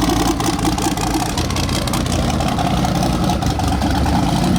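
A car engine running steadily at low revs, a loud low rumble with no revving.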